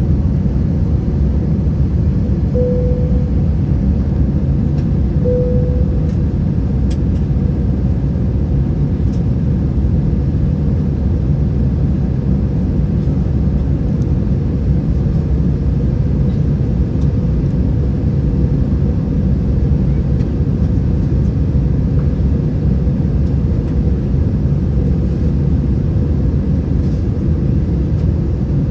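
Steady low rumble of an Airbus A320's cabin, heard from inside, as the airliner taxis with its IAE V2500 engines at idle. Two brief faint tones sound a few seconds in.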